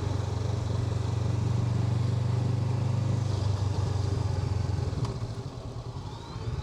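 Honda NX500 parallel-twin motorcycle engine running on the road, a steady pulsing note that eases off after about three seconds and is quieter toward the end.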